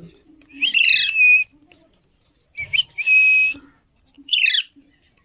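Alexandrine parakeet calling three times: two whistled calls that each end in a held steady note, then a short call sliding downward near the end.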